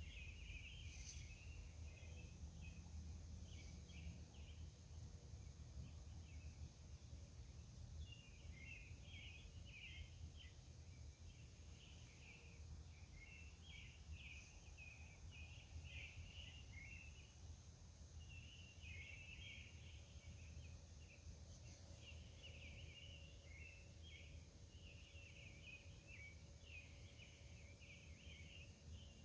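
Faint outdoor night ambience: a steady patter of short, high chirps throughout, over a thin steady high tone and a low hum.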